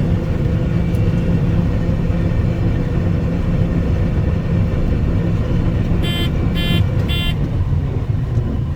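Combine harvester running, heard as a steady low drone from the machine during corn harvest. About six seconds in, three short electronic beeps sound in quick succession.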